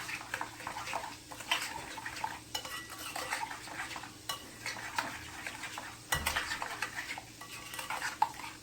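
A spoon stirring thick barbecue sauce in a bowl, scraping and clinking irregularly against the bowl.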